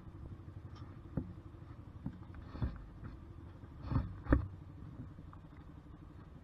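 Honda CBR125R's single-cylinder four-stroke engine idling steadily, with scattered knocks, two louder ones about four seconds in.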